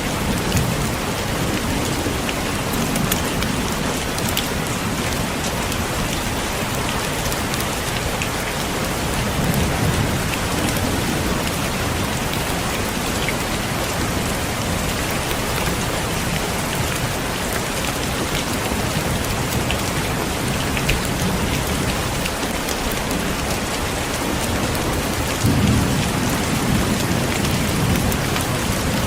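Heavy rain pouring steadily on a window, with low rolls of thunder three times: about a second in, around ten seconds in, and the loudest near the end.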